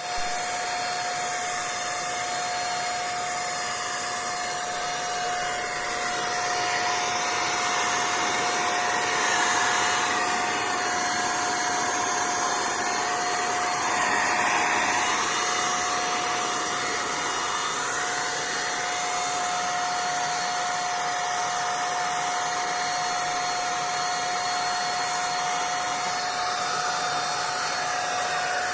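A motor running steadily with a constant whirring hum and one unchanging high tone, swelling slightly a couple of times.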